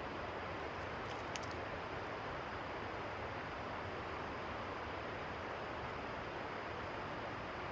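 Steady rushing of river water, an even hiss that does not change, with a few faint high ticks about a second in.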